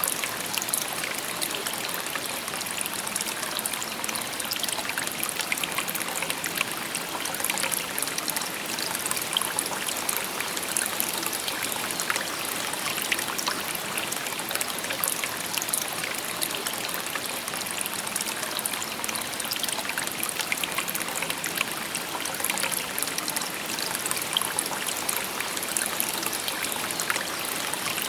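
A shallow river babbling over stones, a steady rush of running water full of small splashes and trickles.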